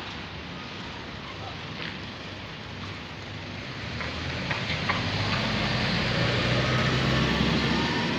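Street traffic noise, then an SUV's engine hum growing louder from about halfway through as it drives up close alongside.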